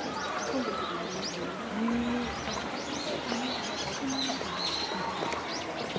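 Many small birds chirping, a dense run of quick high chirps overlapping throughout, with a few short low calls in between.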